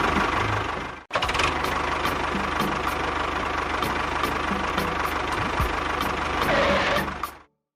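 Engine running steadily with a low throbbing rumble. It cuts out abruptly about a second in, comes straight back, and fades away near the end.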